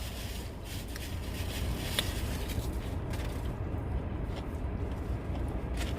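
Steady low rumble inside a car cabin, with a few faint clicks, the clearest about two seconds in.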